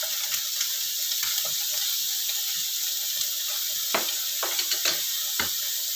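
Sliced sausage and scrambled egg sizzling in hot oil in a wok: a steady high hiss, with a few sharp clicks between about four and five and a half seconds in.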